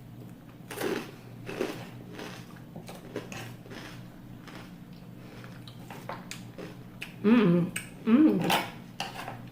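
Cutlery clicking and scraping against a plate while eating, with two short vocal sounds near the end.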